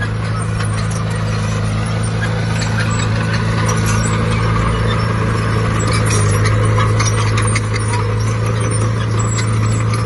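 Large diesel engine of heavy earthmoving machinery running steadily, with a stream of metallic clanks and rattles over its low hum.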